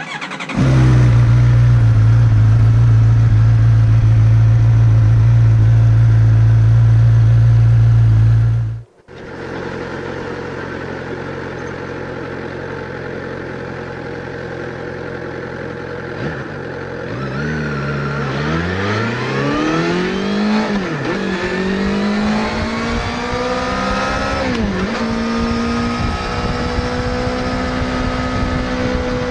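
Suzuki GSX-R600 inline-four motorcycle engine. It opens with a loud, steady low drone that cuts off suddenly about nine seconds in. The engine then runs steadily and, from about seventeen seconds, is revved several times, its pitch rising and falling, before being held at raised revs that slowly sink near the end.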